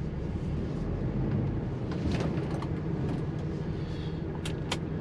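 Lorry's diesel engine running steadily at low revs, heard from inside the cab while the truck shunts its trailer. A couple of sharp clicks come near the end.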